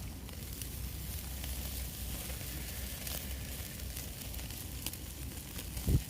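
Pork belly sizzling as it grills over a wood campfire, with fine crackles through the hiss. A single dull thump comes just before the end.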